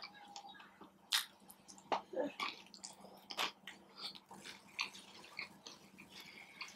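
A person chewing a bite of a fried rolled taco (taquito) close to the microphone: irregular mouth clicks and crunches, a few of them louder.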